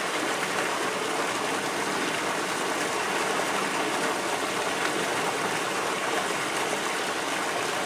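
Steady rush of water pouring over a transparent plexiglass pool waterfall and splashing into the pool.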